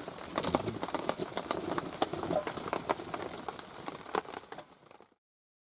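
Heavy rain and drips pattering unevenly on a tarp shelter, many sharp irregular taps over a steady hiss. It fades out about five seconds in, cut to silence.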